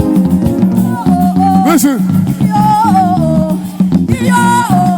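Live worship band music with sustained chords, a bass line and drums, with a voice calling out over it.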